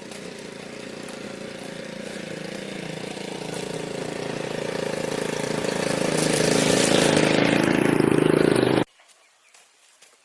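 A motor engine running steadily and growing louder over several seconds, as if coming closer, then cutting off abruptly near the end.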